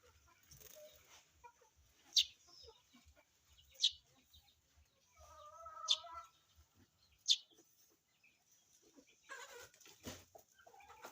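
Sparrows chirping while a chick is fed: four short, sharp, high chirps spread over several seconds, with a lower, drawn-out call from another animal in the middle.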